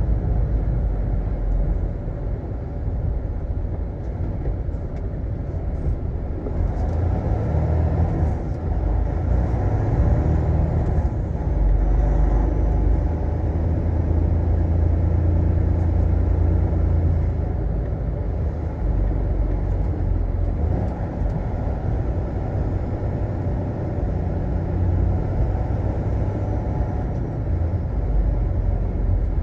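Semi-truck running on the road: a steady low engine and road rumble that swells and eases slightly.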